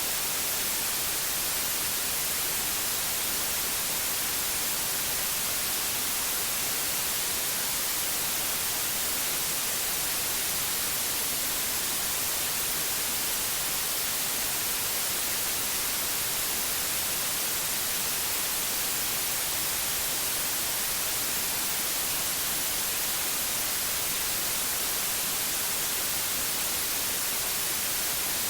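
Steady white noise: an even, unbroken hiss with no other sounds in it.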